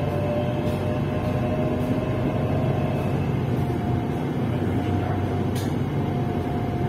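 SRT Red Line electric commuter train running: a steady rumble and hiss with faint thin steady tones above it.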